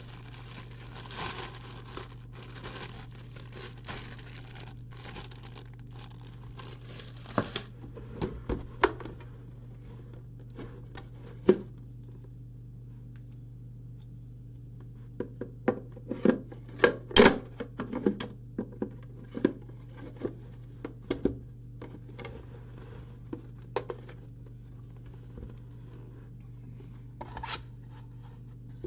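Packaging being unboxed: a few seconds of continuous crinkling and tearing, then scattered sharp taps and knocks as the box and its contents are handled, busiest a little past the middle.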